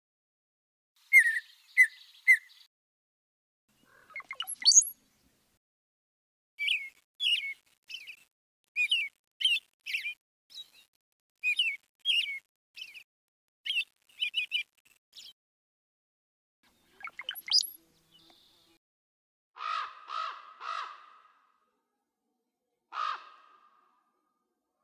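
Wild birds calling: short high chirps and quick runs of repeated notes. Near the end come three harsh caws in a row, and a fourth a few seconds later.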